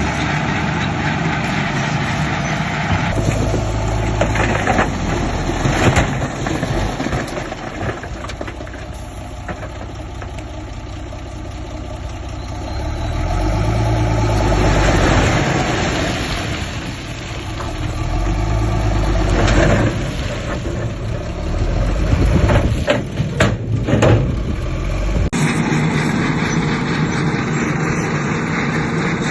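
Heavy diesel engines of earthmoving machinery running and working, the engine sound swelling and easing with load. There is a cluster of sharp knocks near the end, and the sound changes abruptly shortly after.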